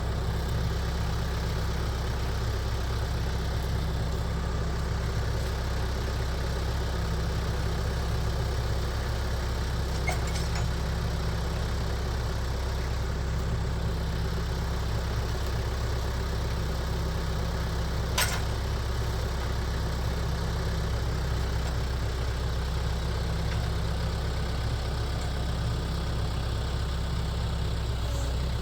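Engine idling steadily with an even low hum, with a sharp click about 18 seconds in.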